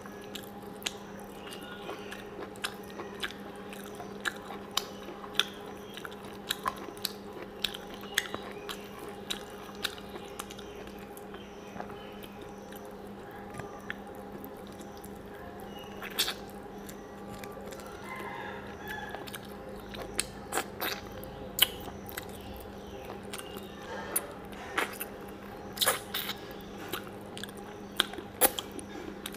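Close-up eating sounds: a person eating rice and mutton curry by hand, chewing with frequent wet lip smacks and mouth clicks, over a steady low hum.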